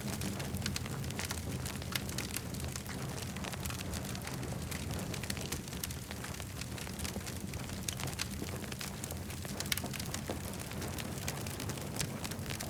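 Campfire burning, the wood crackling with frequent sharp pops and snaps over a steady low rumble.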